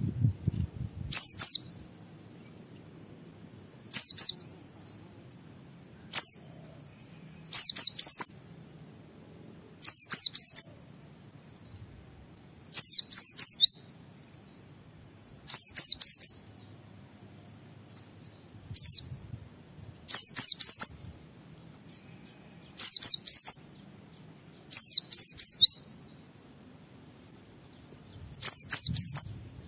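White-eye (pleci) singing in short, high chirping phrases of quick falling notes, about a dozen bursts spaced two to three seconds apart.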